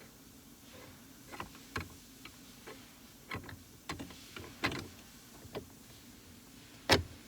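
Irregular clicks and knocks of plastic car-interior parts and connector clips being handled and snapped into place under a dashboard. About a dozen scattered, with one sharp, louder knock near the end.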